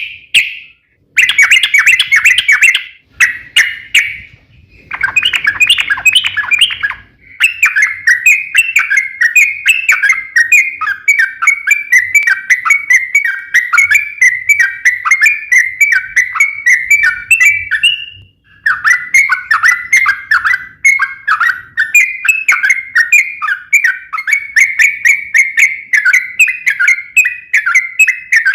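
Yellow-vented bulbul (trucukan) singing a long, rapid, chattering song of quick bubbling notes. It sings in several runs with short breaks, the longest lasting about ten seconds without a pause.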